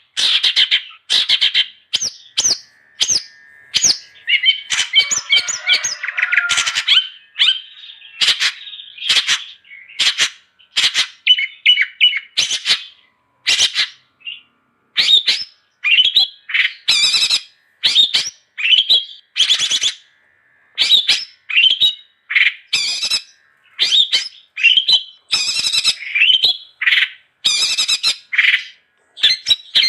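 Long-tailed shrike (cendet) calling in a loud, continuous run of short, harsh chattering notes, about one to two a second, with a couple of brief pauses.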